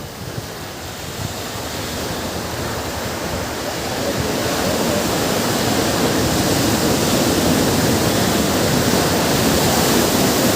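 Ocean surf: the rushing wash of waves, swelling over the first few seconds and then staying loud.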